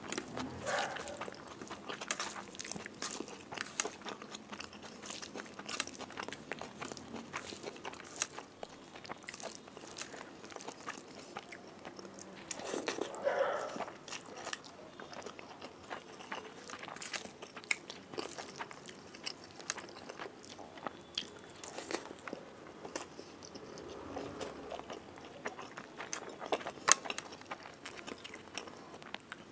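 Close-miked eating: a person chewing and biting mouthfuls of rice eaten by hand, with many short sharp mouth clicks and smacks. A louder stretch of chewing comes about halfway through.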